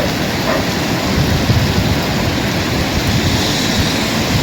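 A rainstorm: heavy rain with a steady low rumble underneath.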